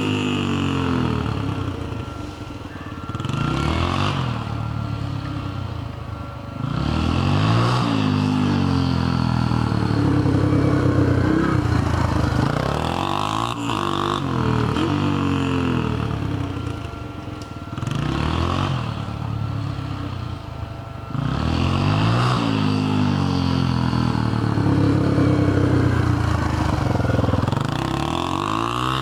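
Yamaha TTR125's single-cylinder four-stroke engine being ridden hard, its pitch climbing and dropping back again and again as the throttle is opened and closed. The exhaust is loud, opened up by the washer mod.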